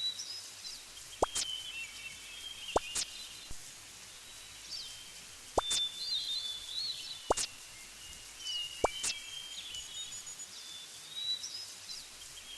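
Small birds chirping in short calls, with sharp clicks or drips every second or two.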